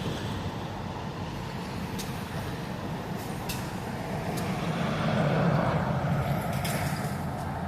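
Steady low rumble of vehicle engines, swelling and fading again about five to seven seconds in as a vehicle goes by.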